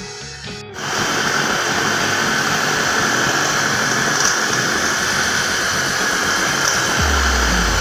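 Electric kitchen grinder motor switching on abruptly just under a second in, then running steadily at full speed, as when grinding cooked chicken and lentils for shami kababs.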